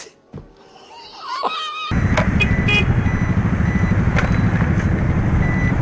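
Riding noise from an automatic motor scooter on the move, a steady rush with a fast low rumble, starting suddenly about two seconds in. Before that it is quieter, with a few short gliding pitched sounds.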